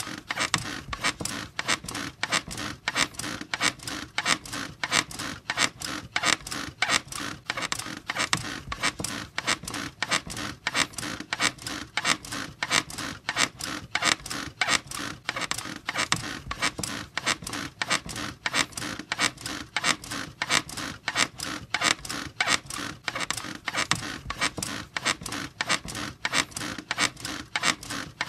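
Bed springs and frame squeaking over and over in a fast, even rhythm, as from a bed rocked back and forth.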